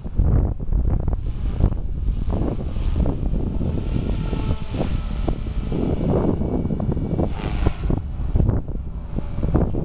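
Electric 450-size RC helicopter (Walkera V450) flying 3D, its rotor and motor whine swelling and fading as it manoeuvres. Wind buffets the microphone with a low rumble.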